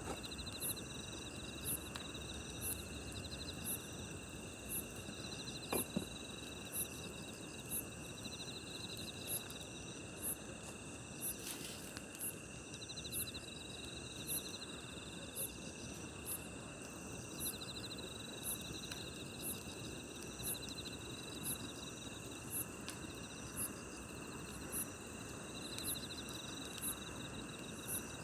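Crickets and other night grass insects singing: a high chirp repeating about every 0.7 s over a steady insect drone, with a pulsing trill coming in groups. Underneath, a low hiss from a campfire with a few single sharp pops.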